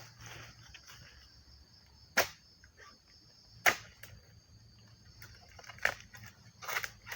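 Four sharp chopping strikes a second or two apart: a hand harvesting tool cutting into an oil palm. A steady high insect drone runs underneath.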